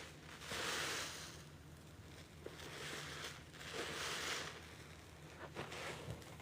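Wet, sudsy sponge being squeezed and rinsed: two long squishing, watery rushes about three seconds apart, then a few small crackles near the end.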